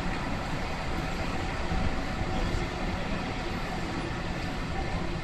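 A Sydney Trains electric train running past, heard as a steady low noise with no distinct clanks or horn, mixed with general city street noise.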